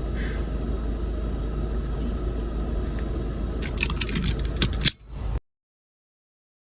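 Steady low rumble of a car, heard from inside, with a few sharp clicks and rattles about four seconds in. The sound then cuts off abruptly into silence.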